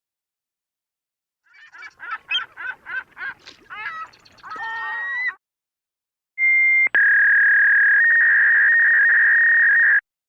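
Sound effects: a run of quick chirping squawks that slide up and down in pitch, then a short beep and a steady three-second tone that cuts off suddenly.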